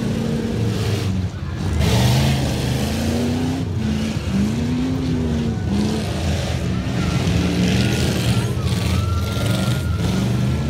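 Engines of racing cars and trucks running hard, their pitch repeatedly rising and falling as the drivers accelerate and lift.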